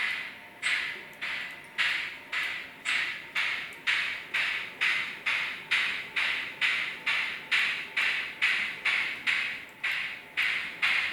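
Steam-exhaust chuff sound from a Märklin H0 model steam locomotive, a regular beat of short hissing puffs that quickens steadily as the engine picks up speed.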